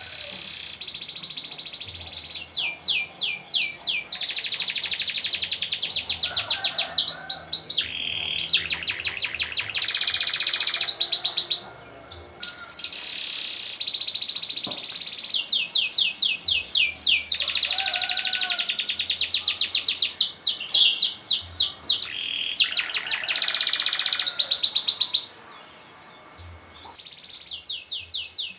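Domestic canary singing a long song of rapid rolling trills and varied phrases, with short breaks about twelve seconds in and near the end.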